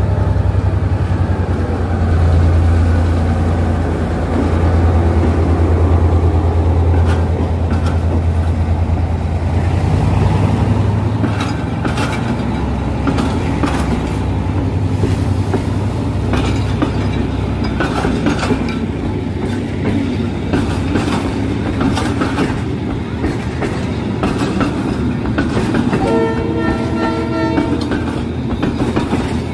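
Diesel-hauled passenger train passing close by. The locomotive's low engine drone dominates for the first ten seconds or so, then the wheels click rapidly over the rail joints as the coaches roll past. A pitched horn sounds for about two seconds near the end.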